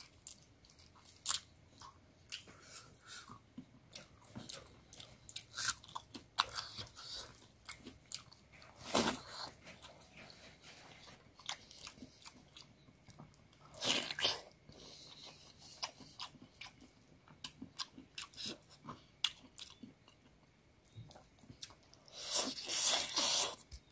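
Close-miked chewing and biting of chicken curry and rice, with wet mouth clicks and crunching on chicken bone. Sounds come and go, with several louder bursts of chewing, the longest near the end.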